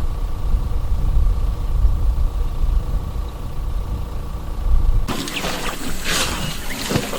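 A vehicle engine idling with a steady low rumble and a thin steady hum. About five seconds in, it cuts off abruptly and birds are heard chirping and whistling.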